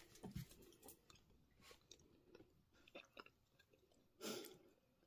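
Faint chewing of a mouthful of food, with small soft clicks, and one brief louder sound about four seconds in.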